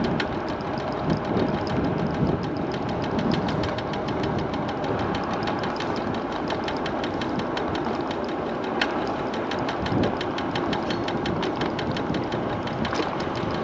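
MiniPro Mi716 electric scooter riding with a fast, even ticking knock from its front wheel over steady road and wind noise. The rider suspects something is wrong with the wheel.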